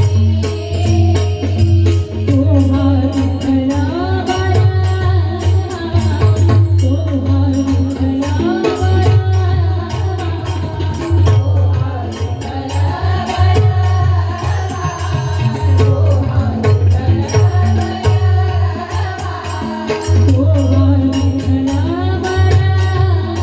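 Marathi abhang devotional music with no sung words: a gliding melody over a strong steady low bass, with pakhawaj drumming and quick, even strokes of small jingling hand cymbals.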